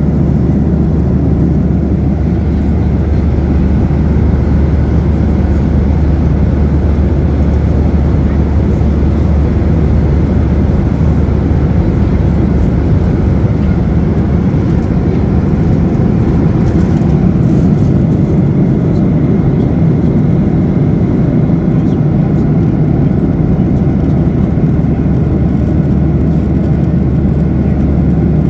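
Steady cabin noise inside a Ryanair Boeing 737-800 in flight: the low, even roar of its CFM56 jet engines and the airflow past the fuselage, with a constant deep hum underneath.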